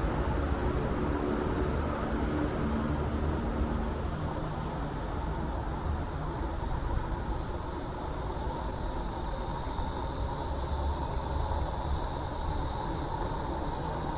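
City road traffic: a steady rumble of passing cars and engines, with a brighter hiss coming in about halfway through.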